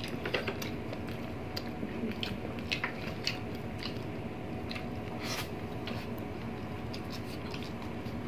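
People chewing soft food close to the microphone, braised pork leg, noodles and rice: scattered wet mouth clicks and smacks, a few every second.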